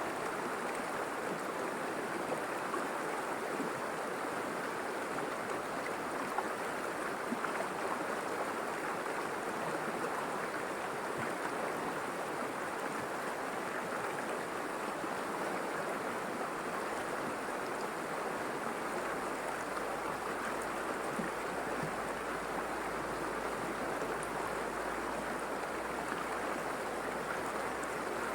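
River water flowing, a steady rushing sound with faint small splashes through it.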